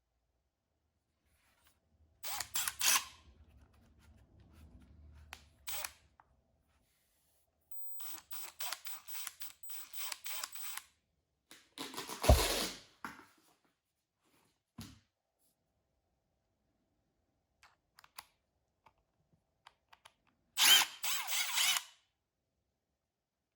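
A cordless impact driver heard in several short separate bursts, with runs of sharp clicks between them and silent gaps; the loudest bursts come about halfway through and near the end.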